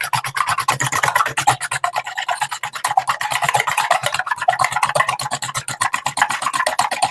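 Two eggs being beaten by hand in a bowl: the utensil scrapes against the bowl in rapid, even strokes, several a second.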